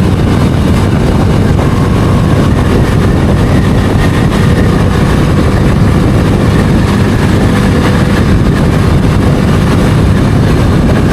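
Bajaj Dominar 250 motorcycle's single-cylinder engine running steadily while riding, mixed with rushing wind on the microphone.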